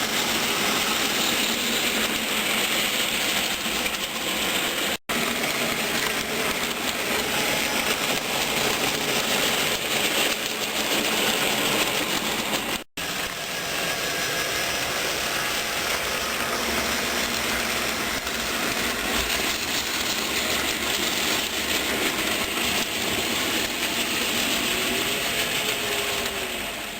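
HO-scale model train, a BB 67554 diesel locomotive hauling covered wagons and refrigerator wagons, running along the track with a steady mix of motor hum and wheel-on-rail noise. The sound cuts out abruptly twice, for a split second each time.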